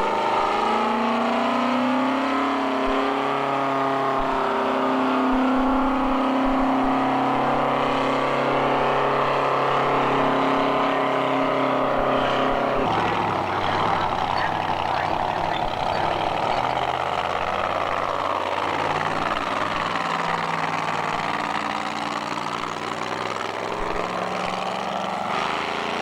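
Monster truck engines running loud and steady, rising and falling a little in pitch, with an abrupt change in the sound about halfway through.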